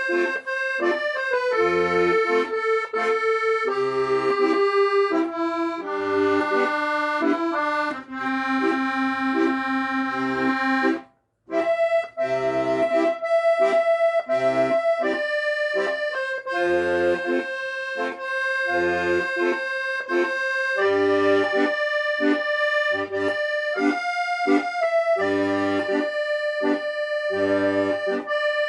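Accordion playing a melody over sustained chords, with low bass notes pulsing on the beat beneath. The music stops dead for about half a second around eleven seconds in, then carries on.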